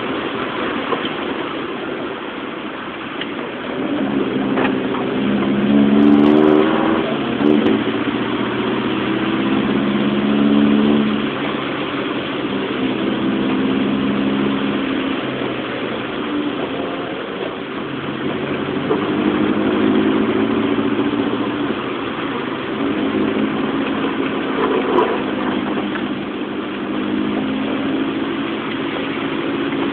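Car engine heard from inside the cabin, speeding up and easing off several times as it is driven hard around a track, its pitch rising and falling with the throttle and gear changes. A steady hiss of rain and wet tyres runs beneath it.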